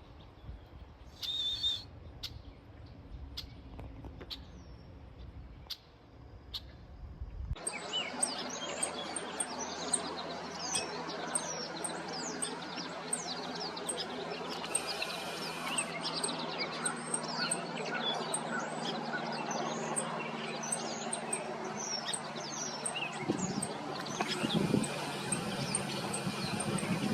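Many birds chirping and calling at once in a dense, continuous chorus of short chirps and whistles. It starts abruptly about seven seconds in, after a stretch of low rumble with a few clicks and a single chirp.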